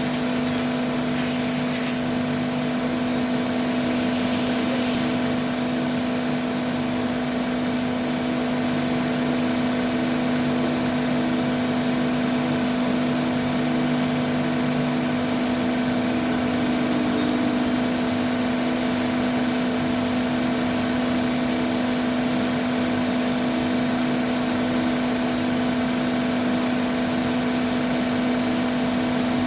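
Nakamura-Tome TMC-15 CNC lathe running steadily: a constant hum with an even mechanical noise and a few faint short hisses in the first several seconds.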